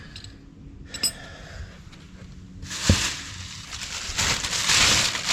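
Small metal gas-pipe fittings being handled: a sharp clink about a second in, a knock near three seconds, then a stretch of rustling and rattling as parts are sorted through.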